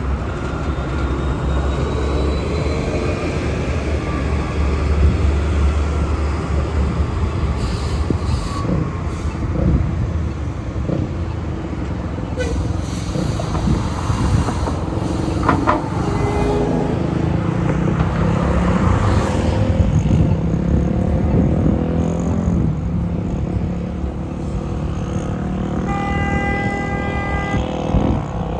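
Busy street traffic, with city buses and other vehicles passing and a deep engine rumble in the first several seconds. A short horn sounds near the end.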